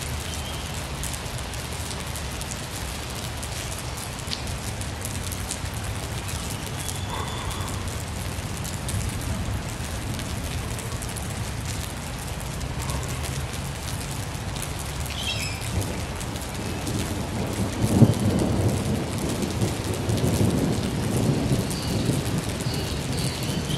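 Rain pattering steadily on a taut shade cloth. A low rumble of thunder swells about three-quarters of the way through, peaking sharply once.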